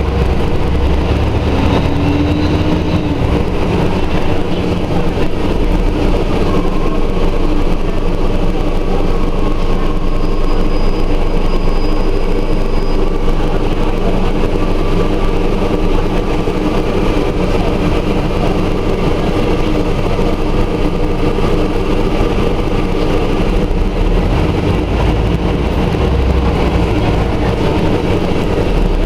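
Scania Omnidekka double-decker bus under way, its diesel engine running with a steady drone over road noise.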